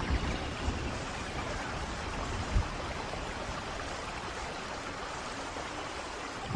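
Steady rain falling, an even hiss, with a single low thump about two and a half seconds in.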